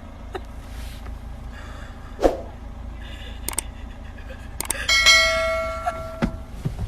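A few sharp knocks, then about five seconds in a single bell-like metallic ring that sounds for a second and a half and fades.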